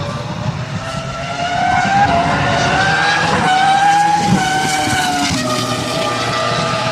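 Jaguar R5 Formula One car's 3.0-litre V10 engine running at high revs, its high-pitched note climbing and growing louder, with sudden drops in pitch about halfway through and again near the end.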